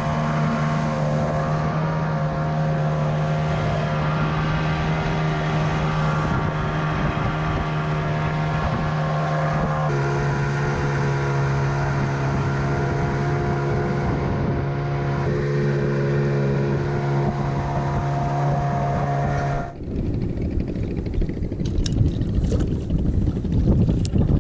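Boat engine running at a steady speed. Its pitch steps slightly lower about ten seconds in, then it ends abruptly near twenty seconds, leaving wind noise.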